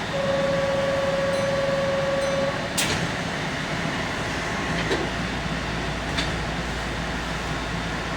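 Keihan commuter train standing at a station: a steady electronic buzzer tone sounds for about two and a half seconds, then a sharp knock, then a low rumble sets in about five seconds in as the train begins to move.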